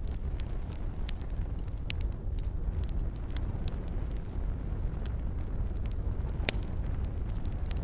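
Wood fire burning in a fireplace: a steady low rumble of flames with scattered sharp crackles and pops, one louder pop about six and a half seconds in.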